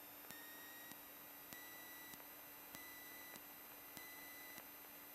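Near silence on the aircraft intercom audio feed: a faint steady high electronic tone and a low hum, with a soft tick about every 0.6 seconds.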